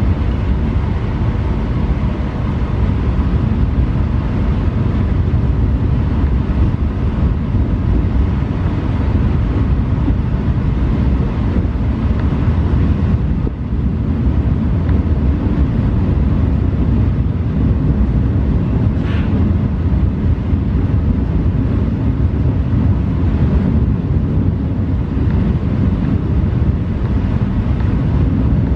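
Passenger train running along the line: a steady loud rumble of wheels on rails and car body noise. A short, sharper sound cuts through about nineteen seconds in.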